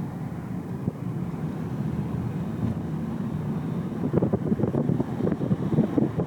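Car cabin driving noise: a steady low rumble of tyres and engine. From about four seconds in it turns rougher and more uneven.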